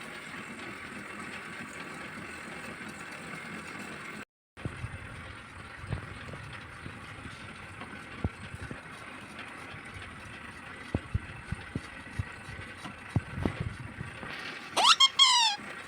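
Steady background hiss with a few faint clicks. Near the end a parrot gives a quick run of loud, high, falling squeaky calls.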